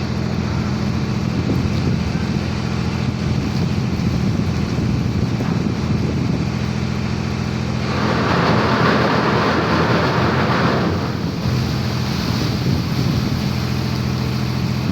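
Ship's engine running with a steady low hum during a berthing manoeuvre, with a rushing noise lasting about three seconds past the middle.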